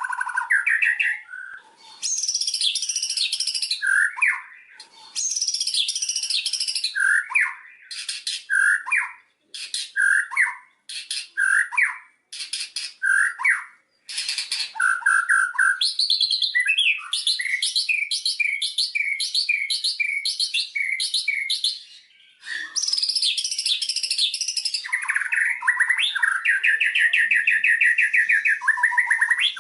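White-rumped shama singing a varied, loud song: bursts of rapid high trills, short whistled notes broken by sharp clicks, then a long run of quick repeated notes and a sustained fast trill near the end.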